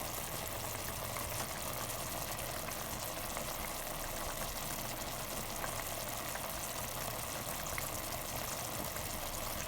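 Chicken adobo simmering and sizzling in a pot: a steady hiss with faint scattered crackles as the chicken renders out its own fat.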